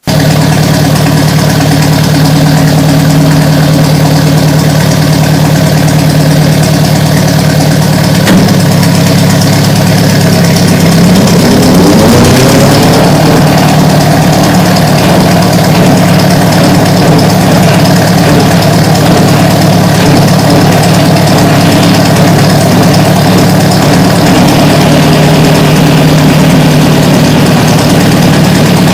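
Ford NAA Jubilee tractor's four-cylinder gasoline engine running steadily under load; about eleven seconds in a rising whine joins it as the PTO-driven drawbar mower spins up, then it runs on steady with the engine. The mower runs through a freshly shortened PTO shaft and an overrunning clutch.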